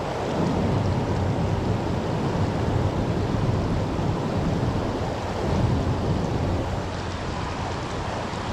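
Steady rush of creek water spilling over a small waterfall.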